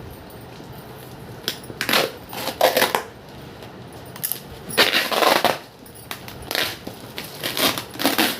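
Parcel packaging being torn and crumpled open: a series of short, irregular crackling tears and rustles, some half a second long, with pauses between.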